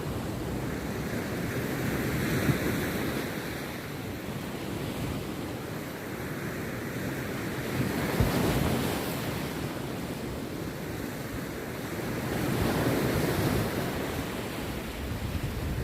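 Rough sea waves breaking on a beach, the surf swelling and falling back about three times.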